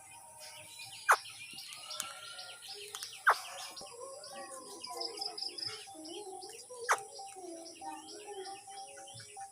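Parakeet chattering and chirping continuously, with three loud, sharp calls that fall in pitch, about one, three and seven seconds in.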